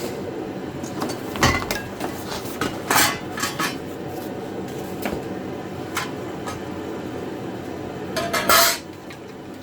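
Sheet-metal and small steel parts of a welding cart clinking and clattering as they are handled and set down. A few sharp clanks come in the first half, and a longer, louder rattle comes near the end.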